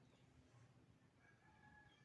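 Near silence with a faint bird call held for nearly a second in the second half, like a rooster crowing far off.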